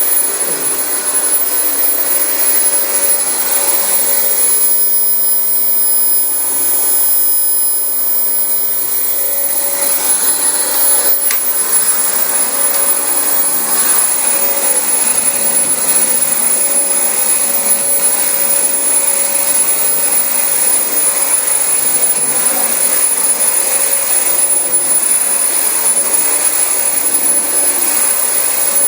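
Dyson DC25 bagless upright vacuum cleaner running over carpet: a steady rushing of air with a high, even motor whine, easing slightly for a few seconds about five seconds in.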